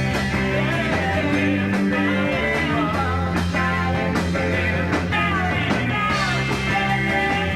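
A rock band playing live, with electric guitar, bass and drums, and a steady beat.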